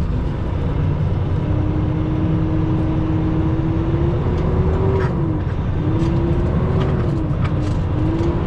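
Semi-truck diesel engine running at low speed, a steady low rumble with a faint tone that rises and falls gently as the truck moves along slowly.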